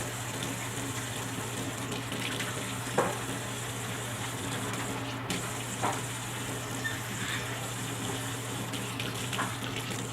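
Running water, a steady rush like a tap left on, with a low steady hum beneath and three soft knocks spread through it.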